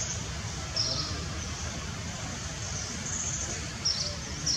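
A small bird repeating a short, high chirp about once a second, over a steady low rumble of outdoor background noise.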